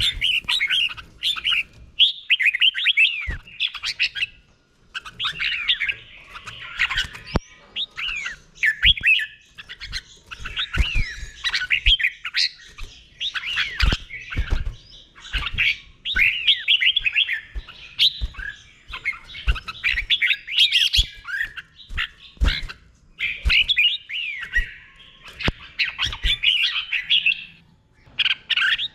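Red-whiskered bulbul singing: a run of quick, warbling phrases with rapid up-and-down whistles, one after another with short pauses between them. A few sharp clicks sound now and then.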